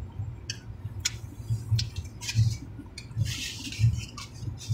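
Close-miked eating sounds: wet chewing with sharp mouth clicks and a short smacking hiss about three seconds in, over a steady low hum inside the car cabin.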